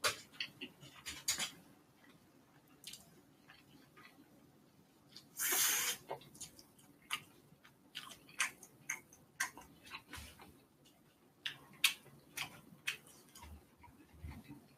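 Close-up mukbang eating sounds of galbi and cold spicy bibim-myeon noodles: many short wet chewing clicks and lip smacks, with one longer slurp about five seconds in.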